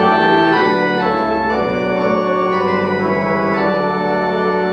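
Church organ playing a short phrase of a few held, changing chords: the liturgical response played after the Gospel is announced.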